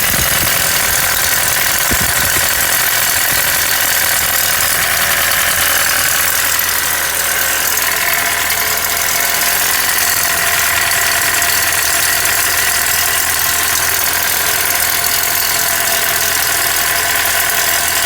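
1994 Nissan Hardbody pickup's engine running steadily with a knock from inside the engine.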